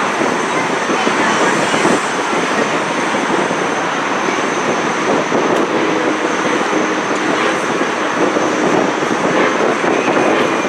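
Steady, loud running noise of a park railroad train in motion, with faint steady tones in the second half.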